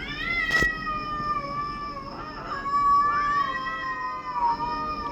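Cat meowing in two long, drawn-out calls, each sliding slowly down in pitch, with a sharp click about half a second in.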